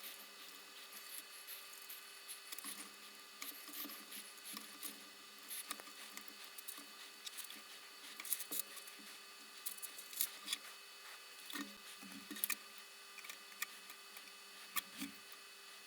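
Faint, scattered clicks and taps of small tools and parts being handled on a workbench, over a faint steady electrical hum.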